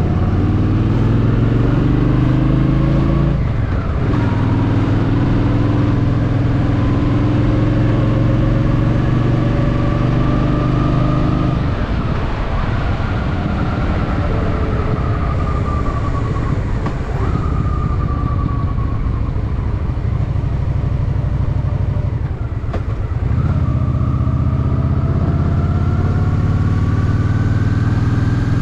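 Honda Shadow VT750's V-twin engine under way: it accelerates, upshifts about four seconds in and pulls again, then runs off the throttle and winds down for about ten seconds before accelerating again near the end.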